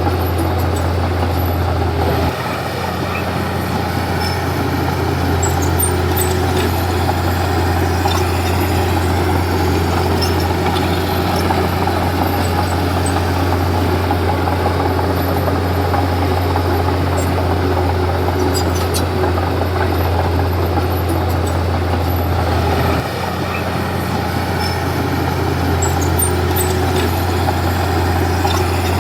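Komatsu D31P bulldozer's diesel engine running steadily under work with a deep drone. The level drops slightly twice, a couple of seconds in and again near the end.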